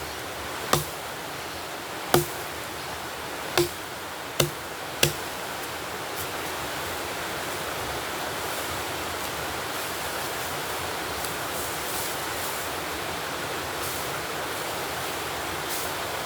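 Five sharp knocks at irregular intervals of about a second, each a single hard blow, stopping about five seconds in. A steady rushing noise runs underneath throughout.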